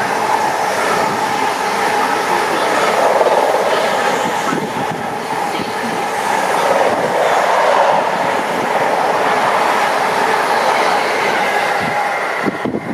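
A train running through the station at speed without stopping: a loud, steady rush of wheels on rails with some clickety-clack, dropping away sharply near the end.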